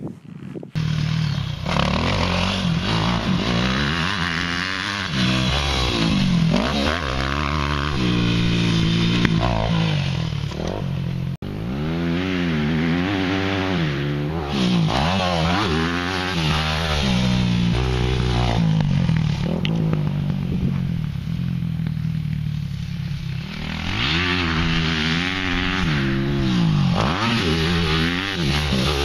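Yamaha YZ250F four-stroke single-cylinder dirt bike engine riding a motocross track, revving up and falling back over and over as the throttle opens and shuts. There is a brief break about eleven seconds in.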